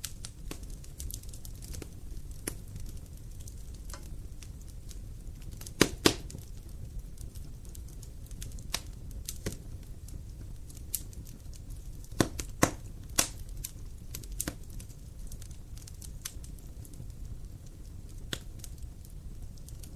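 Wood fire burning, with a steady low rumble and irregular sharp crackles and pops. The loudest are a quick double pop about six seconds in and a cluster about twelve to thirteen seconds in.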